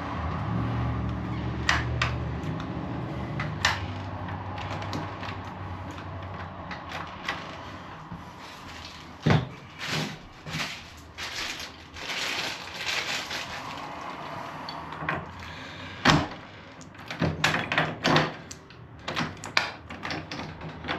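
Scattered clicks, knocks and rustling of deadbolt lock parts being handled and fitted into a door, with a low hum in the first couple of seconds. The sharpest knocks come about nine and sixteen seconds in, and a run of clicks follows near the end.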